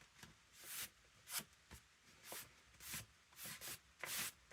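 Fingers rubbing and smoothing down two sheets of paper freshly glued together with PVA glue: a run of soft, papery swishes, about seven strokes.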